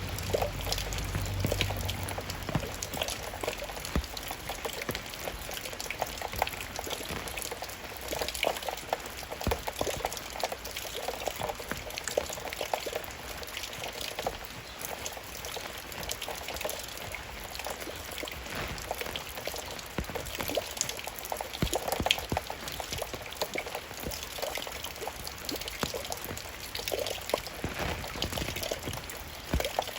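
Raindrops falling and splashing, many irregular drops a second.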